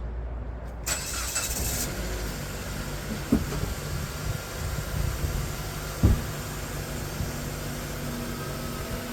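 Car engine starting about a second in and then idling steadily, with two sharp knocks.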